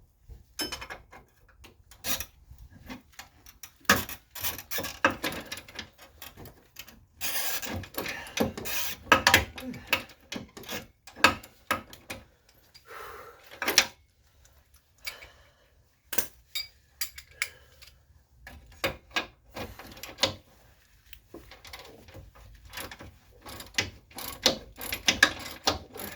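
Hand ratchet wrench clicking in irregular runs of strokes, with metal clanks, as a seized suspension nut is worked back and forth until it starts to turn easily.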